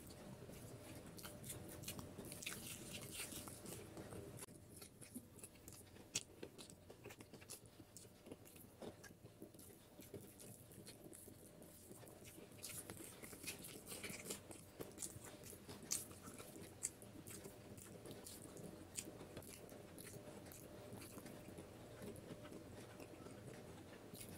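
Close-miked chewing of beef head curry eaten by hand: quiet wet mouth sounds and lip smacks with many small sharp clicks and crunches scattered throughout.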